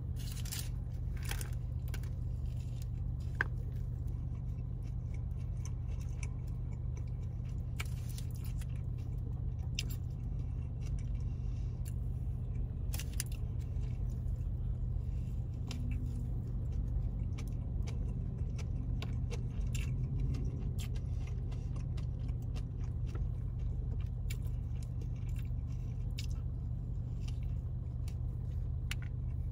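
Close-up biting and chewing of a Big Mac, with many irregular small crunches and wet mouth clicks, over a steady low hum.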